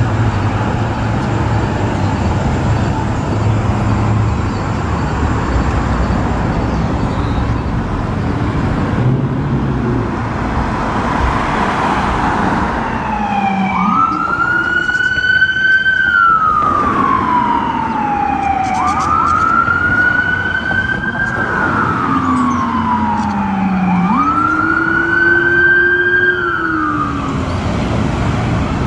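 Traffic and vehicle engines rumble for the first several seconds. About halfway through, an ambulance siren starts wailing: three slow cycles, each rising quickly and then falling more gradually over about five seconds.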